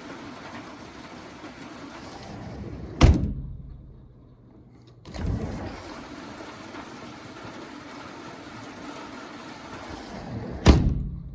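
Steady rain falling on an Alumawood aluminium lattice patio cover. A sharp thump comes about three seconds in, and the sound cuts out briefly before resuming. A second sharp thump comes near the end.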